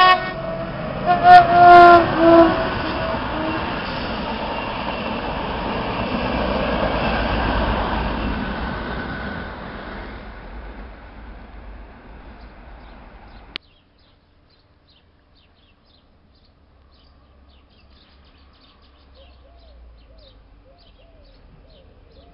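Locomotive-hauled intercity train sounding several short horn blasts in the first couple of seconds, then running past with a steady rail rumble. The rumble swells and then fades away, and cuts off abruptly about 13 seconds in.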